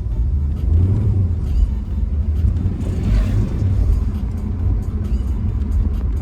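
Car engine and exhaust rumbling steadily while driving, with a brief rush of noise about three seconds in.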